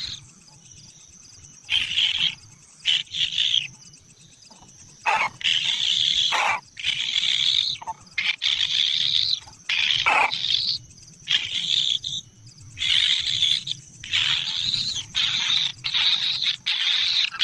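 Kingfisher nestlings giving harsh, raspy begging calls in repeated bursts of up to about a second and a half, with short gaps between them; a few of the calls drop sharply in pitch.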